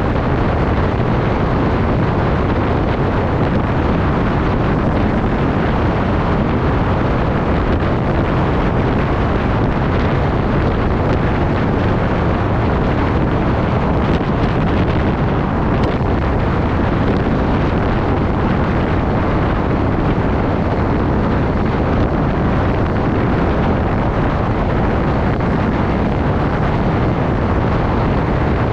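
Steady, loud wind rush buffeting the microphone while riding, with no distinct engine tone or other events.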